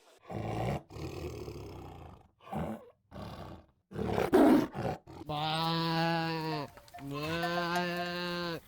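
Several short, rough animal calls in the first half, then two long, steady bleats from farm livestock, each about a second and a half long.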